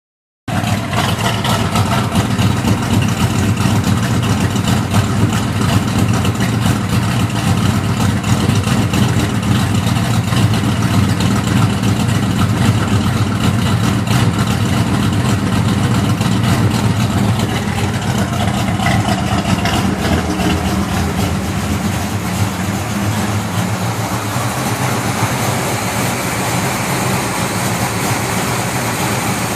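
Oldsmobile 455 V8, bored .030 over to 461 cubic inches, idling with a lopey idle: a loud, steady, uneven, loping engine rhythm.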